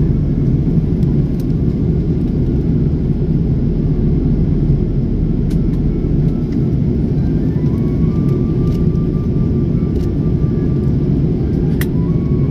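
Steady low drone of an airliner in flight, heard from inside the cabin. Faint steady tones rise above it in the second half.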